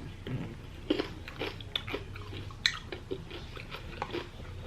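Close-up mouth sounds of a person chewing and biting food, with irregular short crunches and wet smacks.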